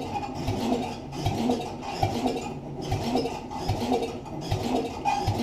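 Electric starter cranking the cold Tecumseh engine of a 1971 Sears Suburban 12 garden tractor off a jump pack, with a slow chugging beat about every two-thirds of a second. The engine does not catch.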